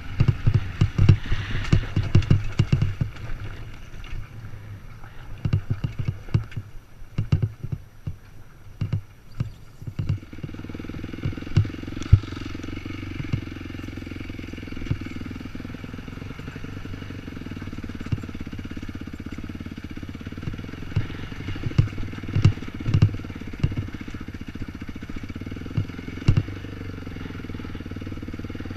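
Dirt bike engine running while riding over rough trail, with repeated knocks and clatter from the bike over bumps. About ten seconds in, the knocks thin out and the engine settles into a steady note.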